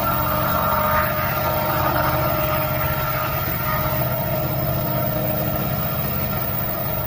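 Diesel freight locomotive running steadily: a low engine throb with several held higher tones over it.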